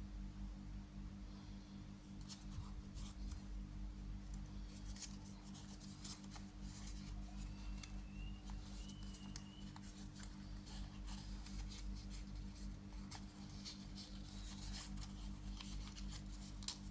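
Origami paper being folded and creased by hand: irregular crisp crinkles and rustles of paper, over a steady low hum.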